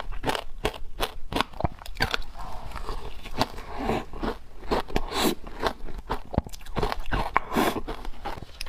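Teeth biting into wet frozen matcha ice: a rapid run of sharp, cracking crunches, several a second, with denser grinding crunches in the middle and near the end.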